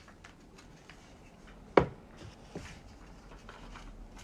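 Tabletop handling during paper gluing: one sharp knock about two seconds in, then a lighter click, among faint rustles of paper and a glue stick.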